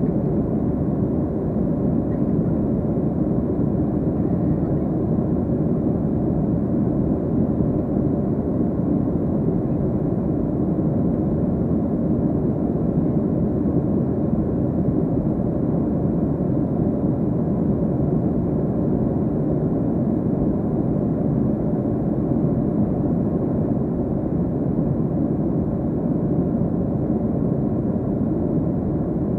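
Steady, even roar inside the cabin of a Boeing 737-300 in flight: its CFM56-3 jet engines and the rush of air over the fuselage.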